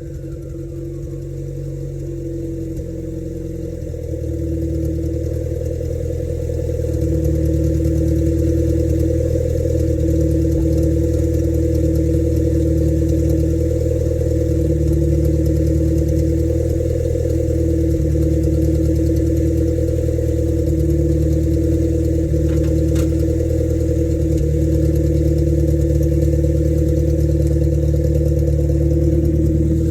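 Turbocharged 1995 Honda Civic engine with a straight-piped exhaust out the front fender, running at a steady speed. It gets a little louder over the first several seconds, then holds an even, unchanging note.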